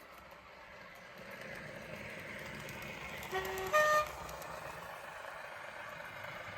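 Sound-fitted N gauge class 108 diesel multiple unit sounding its two-tone horn, a brief lower note then a louder higher note, over the steady running noise of the model trains.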